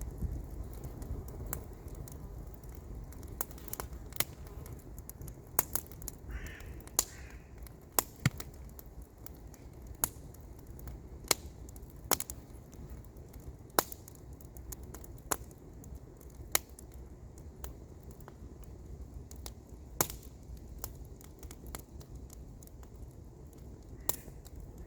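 Wood campfire crackling, with sharp irregular pops every second or so over a steady low rumble.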